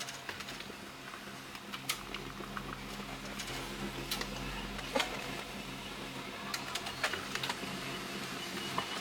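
HP LaserJet P2015d laser printer running a print job: a steady motor-and-gear hum with scattered clicks and ticks from the paper feed.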